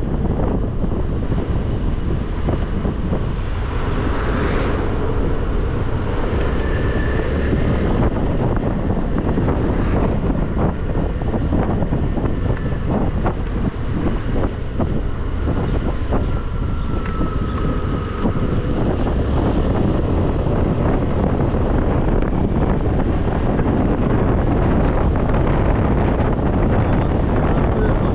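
Wind rushing over a helmet-mounted microphone on a moving scooter, with the scooter running and tyres on a wet road underneath.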